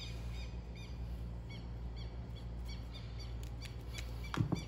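A small bird chirping in the background, short high chirps in quick series of about four a second, over a steady low hum. A few light knocks near the end.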